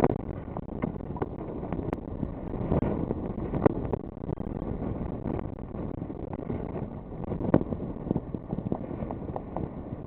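Strong wind buffeting the microphone, rumbling in uneven gusts with frequent crackling pops.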